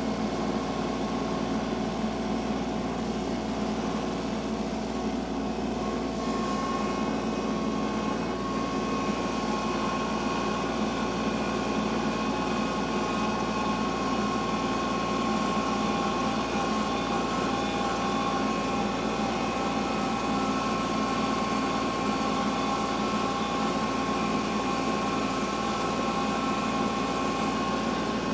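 Tractor engine running steadily, with a steady whine that grows stronger about six seconds in.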